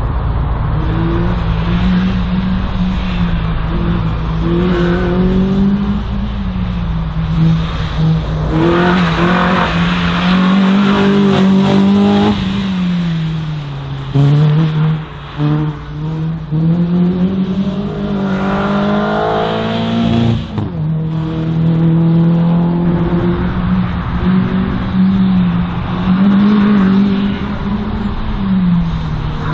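Race car engine working hard through a slalom run, its pitch rising and falling again and again as the driver accelerates and lifts between the cones.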